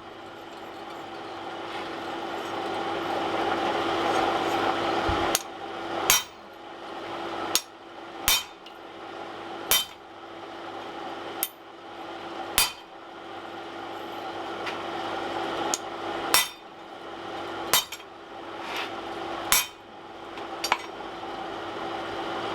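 Hand hammer striking steel, about eleven blows spaced unevenly and often in pairs, starting about five seconds in, as a rivet head is formed with a newly made rivet set. A steady hum runs underneath, slowly getting louder.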